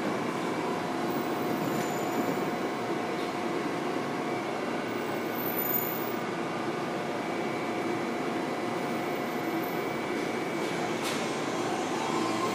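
BART train running past the platform and pulling away, a steady rumble of wheels on rail with a few steady tones over it. Near the end another BART train comes into the station, with a tone rising as it arrives.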